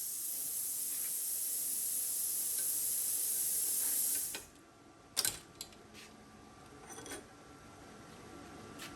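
Plasma cutter cutting steel plate, a steady high hiss that cuts off suddenly about four seconds in. A few light metallic clicks follow.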